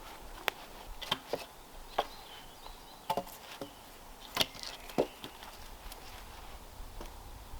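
Irregular light wooden knocks and clicks, about a dozen sharp strikes spaced unevenly over several seconds, typical of wood being cut and handled by hand.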